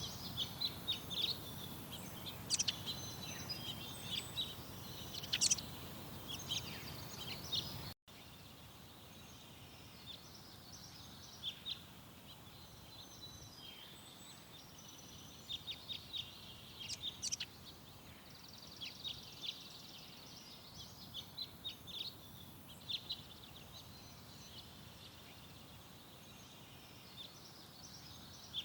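Small garden songbirds chirping and singing: many short, high calls and trills over a steady background hiss. About eight seconds in the sound drops out for an instant and comes back with a quieter background.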